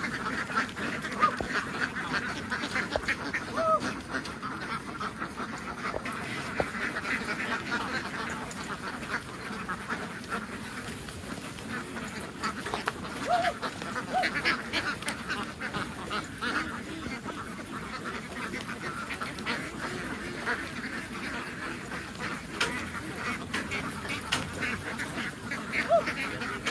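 A large flock of domestic ducks quacking, many calls overlapping in a dense, continuous chorus.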